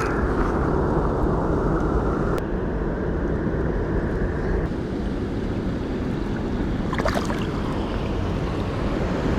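Rushing river water, a steady dense rush with wind buffeting the microphone; a short crackle about seven seconds in.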